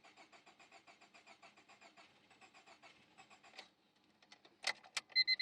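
A 1999 Honda Civic's D16Y7 four-cylinder engine cranking on the starter, faint and even at about five pulses a second, without catching: it cranks but does not fire. The cranking stops about three and a half seconds in, followed by two sharp clicks and a steady electronic beeping near the end.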